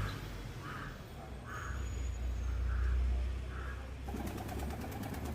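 Pigeons cooing, with a low pulsing coo starting about four seconds in. Softer short calls come about a second apart before it, over a steady low rumble.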